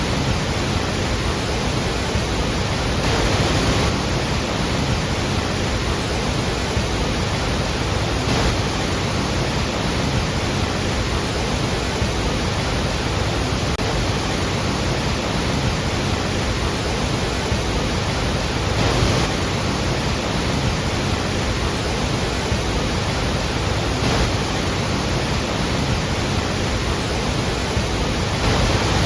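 Iguazú Falls: a large waterfall's falling water making a loud, steady, unbroken rush.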